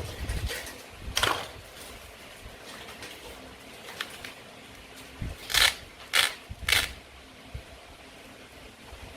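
Play-food toys being cut with a toy knife: short crunches and clacks, one about a second in, then three louder crunches in quick succession between about five and seven seconds in, with light taps between.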